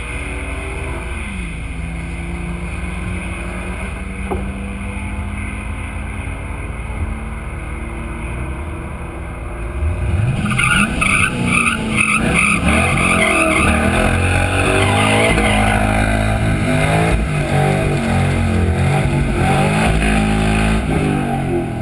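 Cadillac CTS-V's V8 idling steadily. About halfway through, engines rev hard and tyres squeal in a pulsing way, the sound of a drag-racing burnout, and it stays louder to the end.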